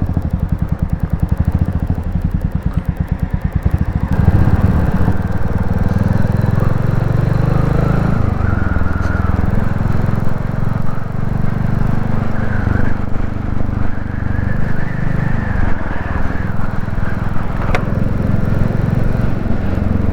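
Royal Enfield Classic 350's single-cylinder engine running slowly with distinct, even beats. About four seconds in it gets louder as the bike pulls away, and its pitch rises and drops in steps several times as it goes through the gears, with road and wind noise.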